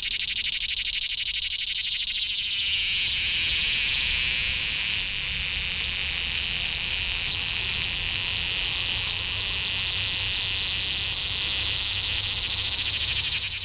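Annual cicada song: a loud, steady, high-pitched buzz. It starts as a fast pulsing rattle, smooths into a continuous drone a couple of seconds in, and turns pulsed again at the very end.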